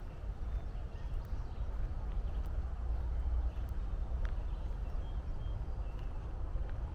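Footsteps of a walker on a trail over a steady low rumble, with a few faint short bird chirps.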